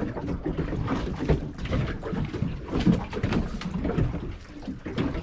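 Water slapping and splashing against the hull of a small fishing boat, with uneven knocks.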